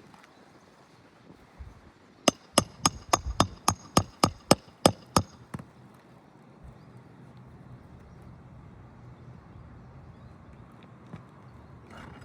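A hammer striking metal about a dozen times in quick succession, three to four blows a second, each with a short metallic ring, then stopping about halfway through.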